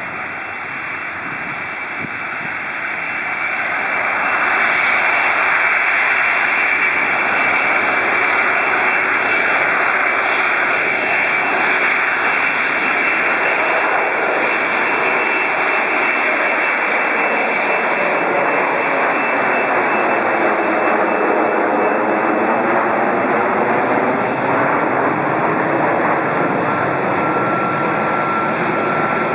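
Four-engine Boeing 747-400 jet engines running loud as the airliner moves past, the noise swelling over the first few seconds and then holding steady with a shifting, whooshing tone as it goes by.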